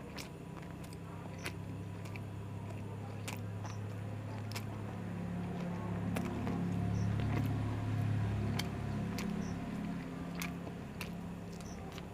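Chewing and biting on an egg roll, with many short mouth clicks, over a low rumble that grows louder in the middle and then eases off.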